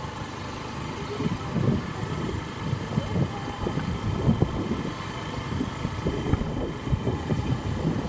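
Motor vehicle running along the road, with a low rumble that keeps swelling and dropping, like wind buffeting the microphone.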